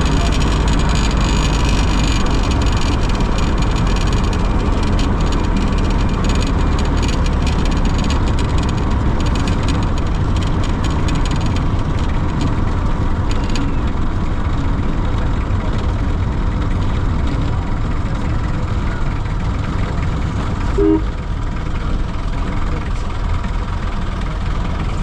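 Steady low rumble of vehicle engine and road noise, as when riding in a moving vehicle, with a brief double beep near the end.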